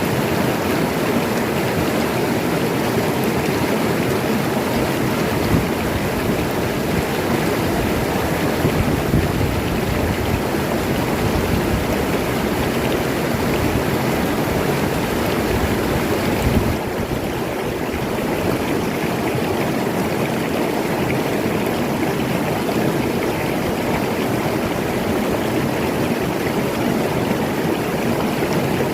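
Oyo River water rushing steadily. About 17 s in the sound drops slightly and loses some of its hiss.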